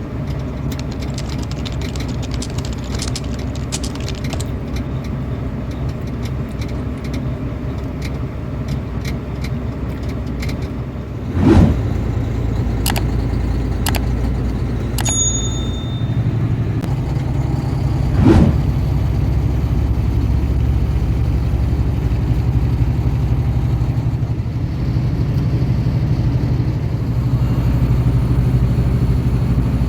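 Vehicle engine running steadily with a low hum, with a run of sharp clicks in the first few seconds and two loud thumps, about eleven and eighteen seconds in.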